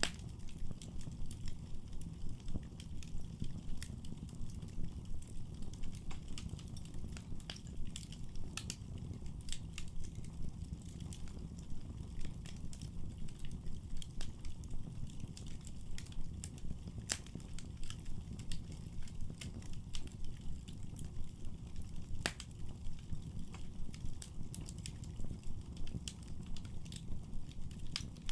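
Firewood burning in a fireplace: frequent sharp crackles and pops, irregularly spaced, over a steady low rumble.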